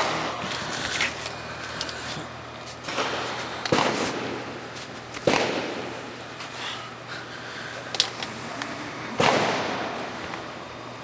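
Scattered sharp bangs, four strong ones a second or more apart and a few fainter ones, each trailing off in an echo. The uploader takes them for gunshots.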